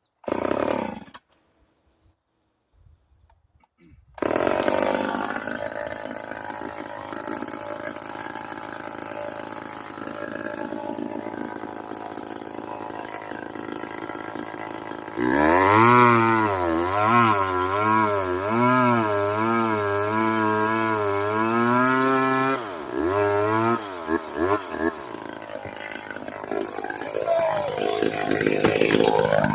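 Chainsaw engine: a short burst just after the start, then it starts and runs steadily from about four seconds in. About halfway it goes to high revs, its pitch wavering up and down for several seconds as if labouring in a cut, then drops back, blips a few times, and revs up again near the end.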